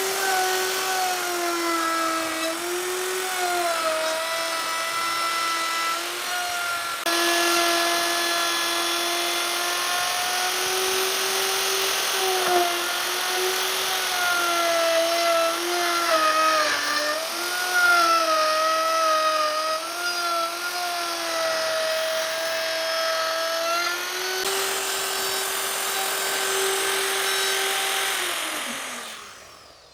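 Handheld electric power tool working wood, its motor whining steadily, with the pitch dipping and recovering as the tool is loaded into the workpiece. Near the end the motor is switched off and spins down, the whine falling in pitch and fading.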